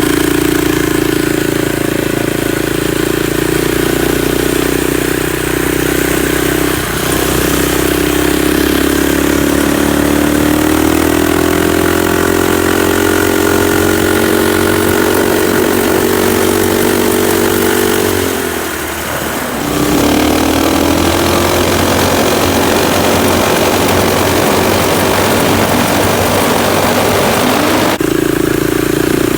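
Stage 2 Predator 212 single-cylinder engine on a Chinese ATV running loudly through a 1-inch straight pipe stepped into a 2-inch tailpipe, fitted for a deeper tone. The engine speed slowly rises, drops sharply about two-thirds of the way through, then picks back up.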